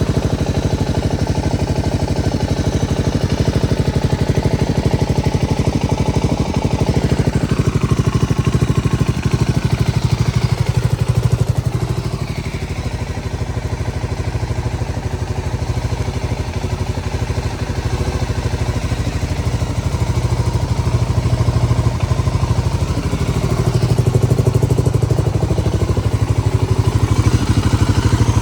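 Honda GB250 Clubman's air-cooled single-cylinder four-stroke engine running at idle, its level easing a little near the middle and rising again near the end.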